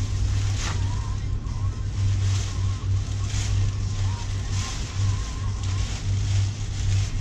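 Crinkly plastic motorcycle cover rustling in several short bursts as it is handled and pulled over the bike. A steady low electrical hum runs underneath.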